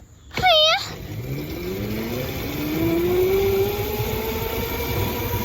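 A short, loud wavering tone about half a second in, then a motorbike's motor pulling away, its whine rising steadily in pitch as it speeds up.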